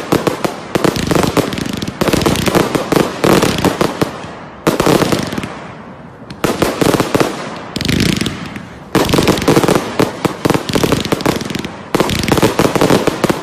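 A fireworks finale: rapid volleys of bangs and crackling shots going off in dense runs of a few seconds, with brief lulls between them.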